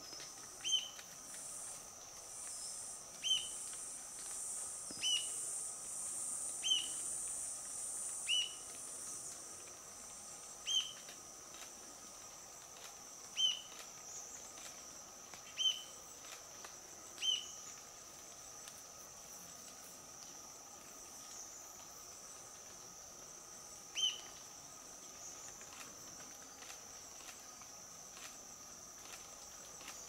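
Rufous-tailed jacamar calling: a short, high, sharp note, about ten times at intervals of one to three seconds, stopping a little over three-quarters of the way through. Under it runs a steady, high-pitched drone of rainforest insects.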